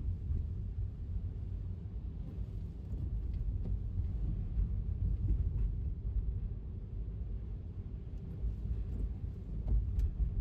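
Steady low rumble of a car driving on wet streets in the rain: road and tyre noise, with a few faint ticks.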